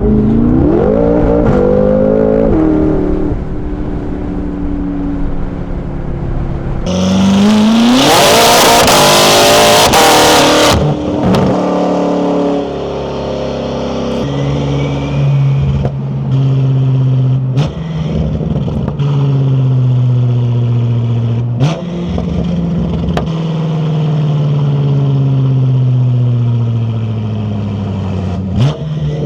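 Twin-turbo V8 of a tuned BMW F10 M5 Competition running through an Akrapovic exhaust while driving. It revs up and down, accelerates hard about seven seconds in with a loud rush under the rising engine note, then eases off with long falling notes broken by a few sharp cracks.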